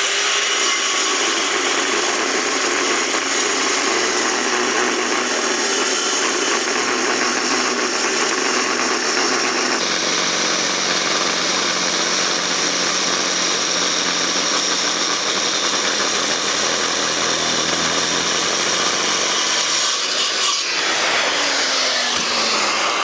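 Power saw cutting steadily through thick steel plate, run slowly without forcing it. About twenty seconds in the cut ends and the saw's motor winds down.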